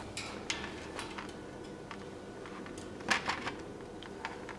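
A parrot picking at sunflower seeds with its beak: scattered faint clicks and taps, with a short cluster of them about three seconds in.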